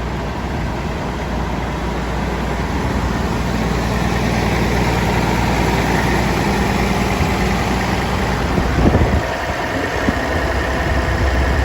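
Caterpillar C15 diesel engine of a Kenworth T800W dump truck idling steadily, with a brief louder burst about nine seconds in.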